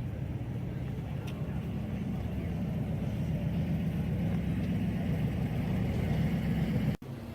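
Ferrari 360 Challenge Stradale's 3.6-litre V8 engine running with a steady low rumble that grows gradually louder, then cuts off abruptly near the end.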